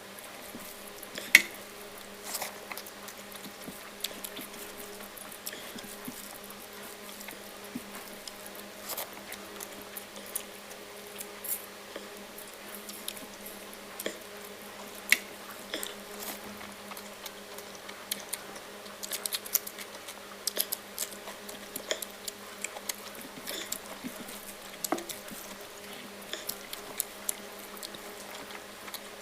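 Close-up eating sounds from a meal of dal and mushroom curry: wet squishing and smacking of food being eaten, with many small clicks and an occasional sharp clink of a dish, one loud one about a second and a half in.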